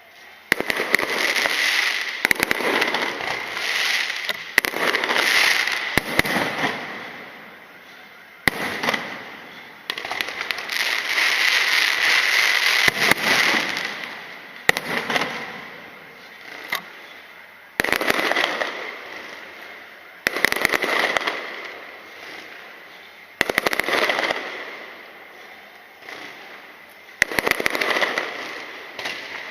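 Aerial fireworks shells bursting one after another, about ten times. Each sharp bang is followed by a few seconds of crackling that fades away.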